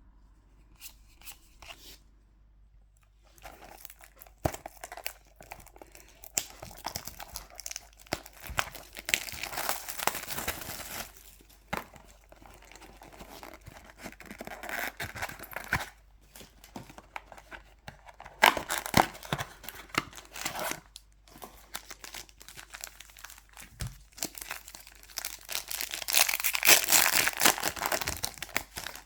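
Foil booster pack wrappers of Pokémon trading cards being torn open and crinkled, in irregular bursts of rustling with sharp clicks, loudest near the end.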